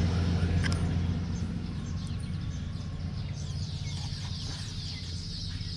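A low engine hum that fades over the first couple of seconds, giving way to many birds chirping together.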